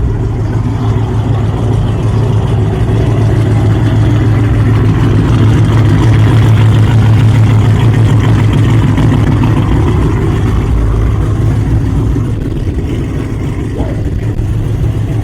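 Car engine running with a deep, loud exhaust rumble. It grows louder toward the middle and then eases off.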